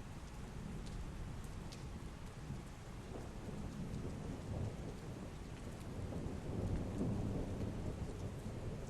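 Heavy rain falling steadily, with a low thunder rumble that swells in the second half.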